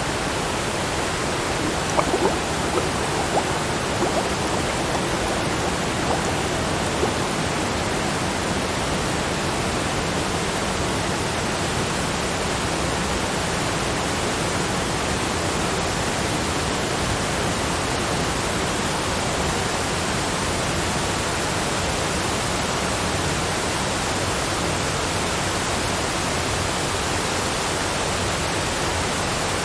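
Steady rushing of water, loud and even throughout, with a few short knocks in the first several seconds.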